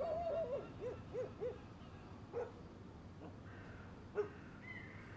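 Birds calling over a low steady background rumble: a wavering, hooting call in the first second and a half, then a few short single calls and a brief falling higher note near the end.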